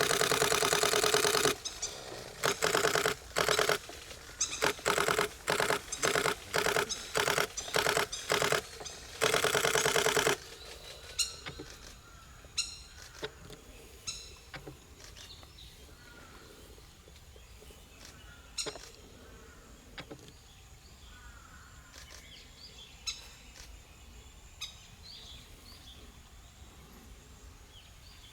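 Nikon D500 camera shutter firing in rapid continuous bursts: one long run, then a string of short bursts, stopping about ten seconds in. After that, faint scattered bird chirps and clicks.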